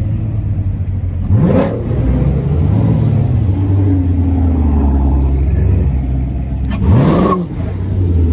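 Car engine idling with a low, steady rumble, revved sharply twice: once about a second and a half in and again near the end, each rev climbing fast and dropping back.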